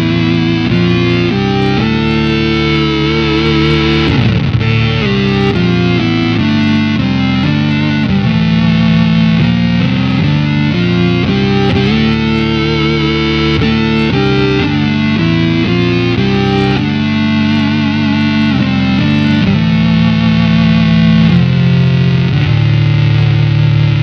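Electric guitar played through an EarthQuaker Devices Data Corrupter PLL synth/harmonizer pedal: its two oscillator voices make a synth-like, harmonic-rich tone with the pedal's square-wave fuzz blended in. The playing is a run of held notes that change pitch about every half second to a second.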